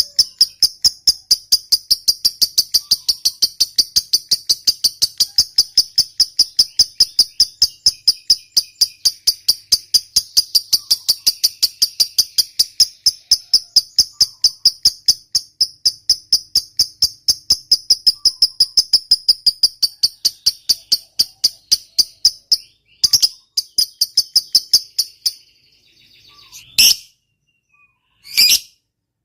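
Lovebird giving a long 'ngekek panjang': a rapid, evenly spaced, shrill chattering trill held without a break for over twenty seconds. It then breaks into a couple of short bursts and two single sharp calls near the end. This long ngekek is the sign of a bird in full song (gacor).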